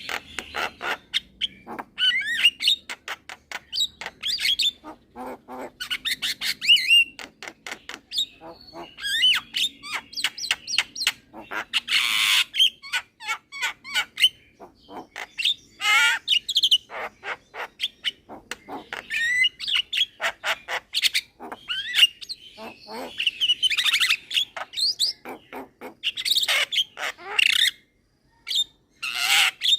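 Young Javan myna singing at full song: a fast, busy run of clicks, whistled chirps and harsh squawks with short pauses, breaking off briefly near the end.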